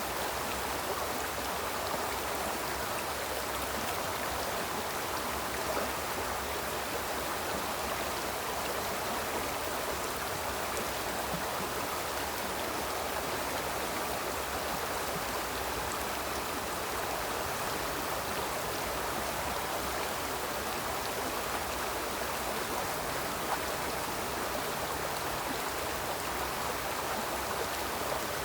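Small river flowing steadily over stones, an even rushing babble of water.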